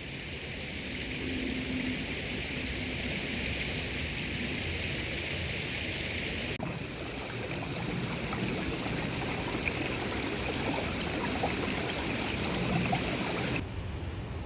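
Steady rush of running water, changing abruptly about halfway through and stopping shortly before the end.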